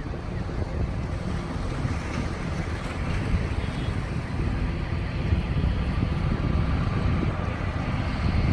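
Wind buffeting the microphone: a steady low rumbling rush that grows slightly louder through the second half.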